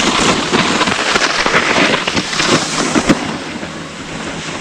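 Skis scraping and sliding over hard-packed snow: a rough hiss full of crackles, loudest over the first three seconds, with a sharp clack about three seconds in.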